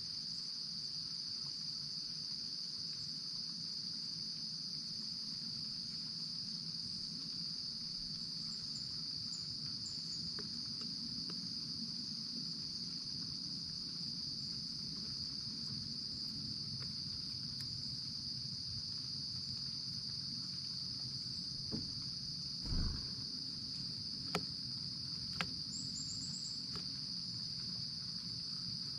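Crickets trilling in a continuous, steady high-pitched chorus. A few sharp taps and one dull knock break in about three quarters of the way through.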